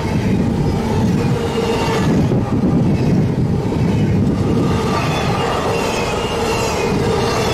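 Double-stack intermodal container train passing at speed: a steady heavy rumble of wheels on rails, with a thin continuous squeal from the wheels running through it.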